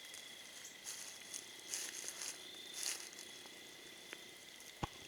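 Faint rustling of brush and undergrowth as people move through it, over a steady high insect drone; two sharp clicks near the end.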